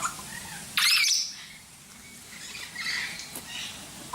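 A bird gives one loud, harsh squawk about a second in, followed by quieter chirps and calls.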